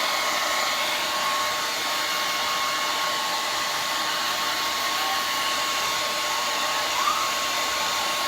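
Handheld blow dryer running steadily, an even rush of air with a faint steady whine.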